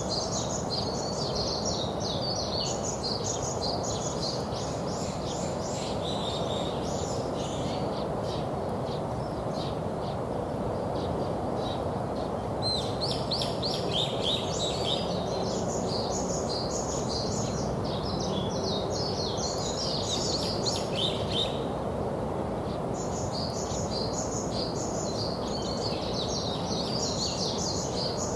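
Songbirds chirping in fast, dense runs of high notes that come in three long spells with short pauses between, over a steady low background rumble.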